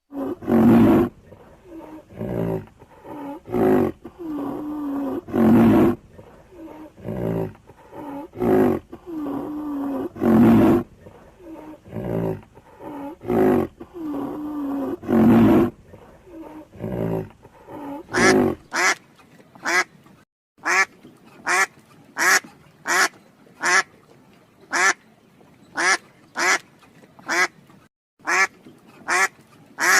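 Animal calls. For the first half, loud drawn-out calls repeat every second or two. After that come short, sharp calls, about two a second, that carry on to the end.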